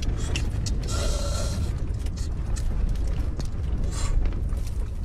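Low, steady rumble of strong wind buffeting the camper van, with scattered small clicks and knocks of things being handled inside, and a brief hiss about a second in.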